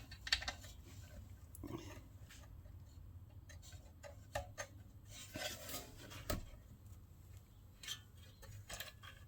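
Faint, irregular clicks and light metallic taps of bolts, nuts and hand tools being handled while fitting a small engine's fuel tank.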